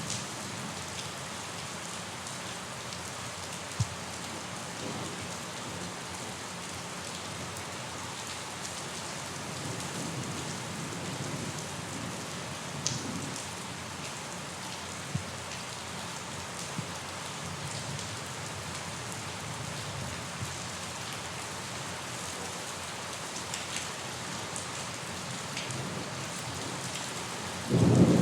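Steady rain falling on a surface, with a few sharper drop hits standing out. Near the end a loud rumble of thunder breaks in suddenly.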